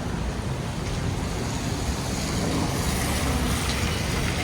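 City street traffic: a steady low rumble of vehicles, with a rising hiss a little past halfway, like a car's tyres passing on a wet street.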